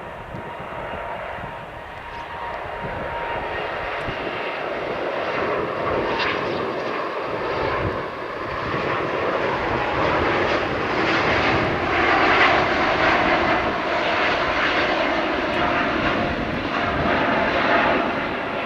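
Airbus A350-900's Rolls-Royce Trent XWB turbofans at takeoff power, a jet roar that builds and is loudest about two-thirds of the way through.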